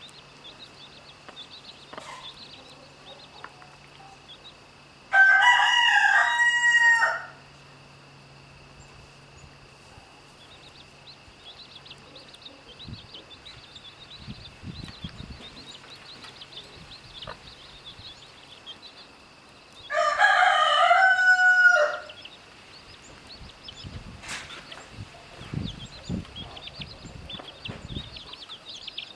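A rooster crowing twice, each crow about two seconds long, the second about fourteen seconds after the first. Faint high chirping runs underneath.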